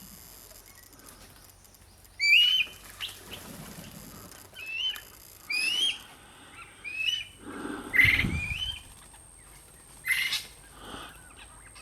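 A bird calling over and over in short, sharp notes, each with a quick upward flick, roughly one a second. About eight seconds in, a low rumbling noise comes in with the loudest call.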